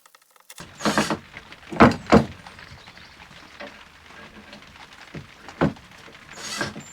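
Several loud wooden knocks and thumps from the wood and tools being handled on a workbench, the biggest two about two seconds in, over a steady hiss.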